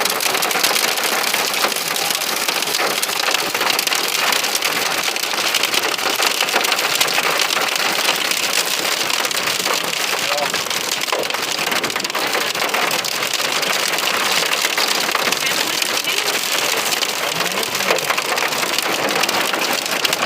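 Heavy rain falling steadily on a hard surface, a dense hiss of many small drop impacts that keeps an even level throughout.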